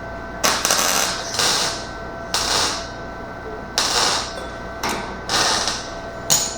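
MIG welder laying a series of short tack welds on sheet metal: about seven crackling bursts of arc, each half a second to a second long, with short pauses between.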